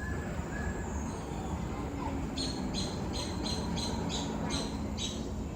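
Birds calling in an aviary: a few short whistled notes at the start, then from about two seconds in a rapid run of about eight short high notes, roughly three a second, over a steady low background hum.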